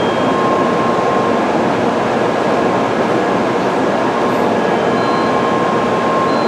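Steady, even noise of a Tokaido Shinkansen train at the platform, with a few faint brief tones in it.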